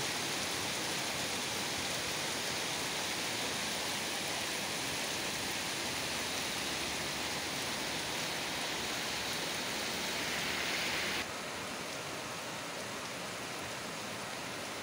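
Heavy rain falling steadily, a dense, even hiss of water. About eleven seconds in it suddenly drops a little in level and sounds slightly duller.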